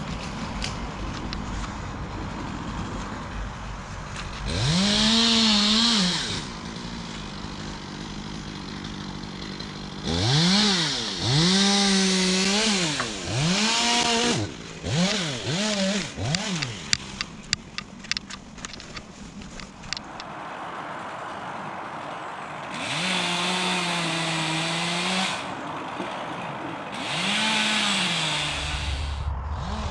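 Chainsaw idling and revving up in about five short bursts, each rising in pitch, holding and dropping back, as brush is cut.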